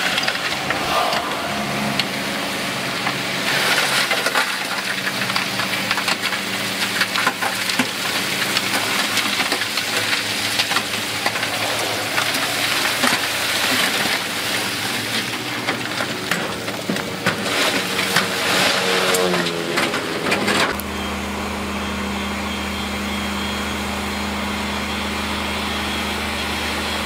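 Heavy diesel earthmoving machinery working in rock: the engine runs under load amid repeated cracking and crunching of broken rock, and rises in pitch shortly before a change. About two-thirds of the way in, the sound switches abruptly to a steady, deeper engine drone without the rock noise.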